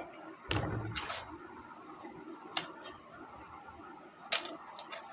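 A few light, separate clicks and taps as the parts of a model aeroplane kit are handled and fitted together.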